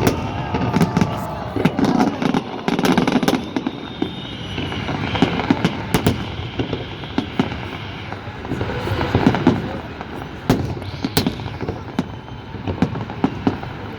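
Fireworks salute going off: a string of sharp bangs at irregular intervals, with crowd voices underneath.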